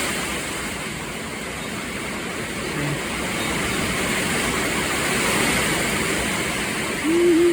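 Steady hiss of heavy rain with wind, even and unbroken, with a short pitched hum near the end.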